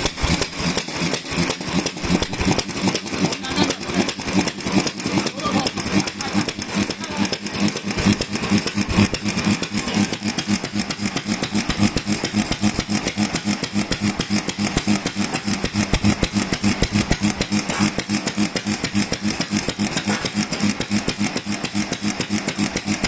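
Vintage Japanese stationary engine (hatsudoki) running steadily, with an even, rapid beat of firing strokes.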